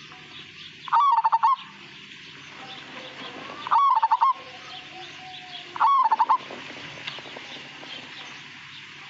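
Zebra dove (perkutut) of the Majapahit type cooing: three short phrases of quick, pulsing notes about two seconds apart. Each phrase ends without a long drawn-out final 'kung' note, the mark of the Majapahit call.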